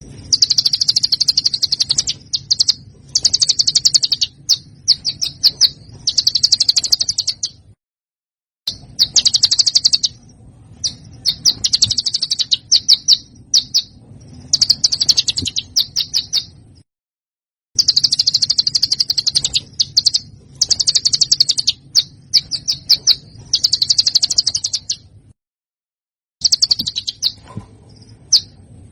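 A small songbird singing in fast rattling bursts of sharp, harsh repeated notes, phrase after phrase, over a faint low hum. The song stops dead for about a second three times, where recorded clips are joined.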